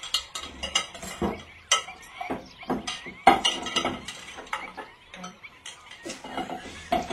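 Plates and cutlery clinking and clattering: a string of sharp clinks and knocks, the loudest about three seconds in.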